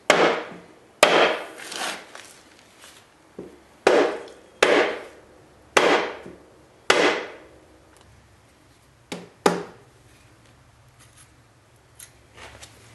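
Rawhide mallet striking a Jeep transfer case about eight times, roughly a second apart, each blow ringing briefly; the last two are lighter and close together. The blows are knocking the transfer case loose to separate it from the transmission.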